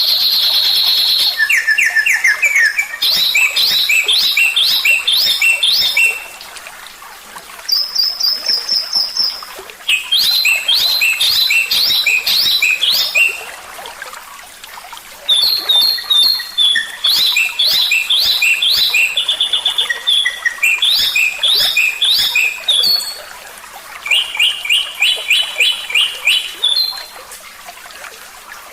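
Songbird singing loud phrases of fast, repeated high chirps and trills, each lasting a few seconds, with short pauses between. This is a tutor song of the kind used to teach caged songbirds new notes.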